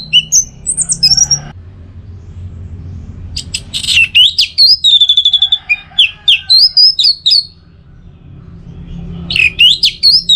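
Orange-headed thrush singing in fast, varied phrases of high whistled and chattering notes, broken by short pauses. It stops about a second and a half in, starts again about three seconds in, and resumes near the end.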